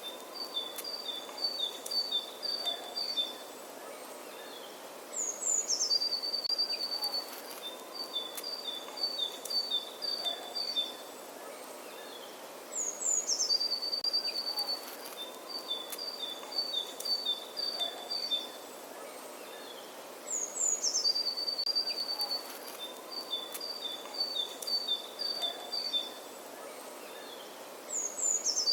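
A bird singing the same phrase over and over, about every eight seconds: a quick high falling note, then a run of short notes alternating between two pitches, over a steady background hiss.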